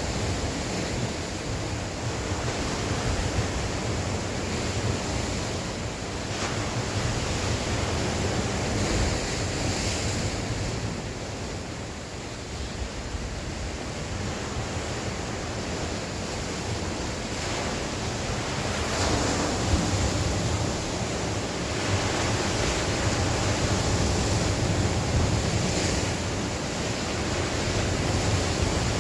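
Sea waves surging onto the shore, a steady rush of surf that swells and eases every few seconds, with wind rumbling on the microphone.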